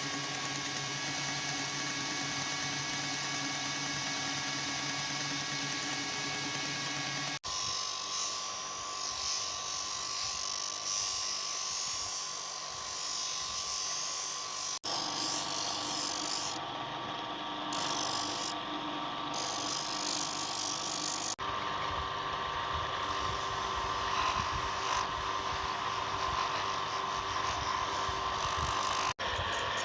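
Small electric power tool running steadily with a high motor whine, in several clips joined by abrupt cuts that change its pitch and tone.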